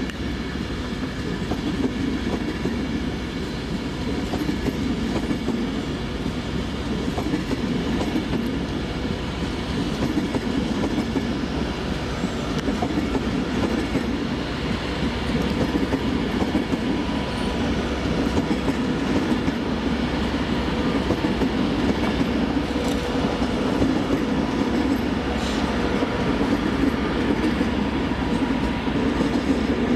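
A train running on the tracks: a steady rumble of wheels on rail, with a few faint clicks near the end.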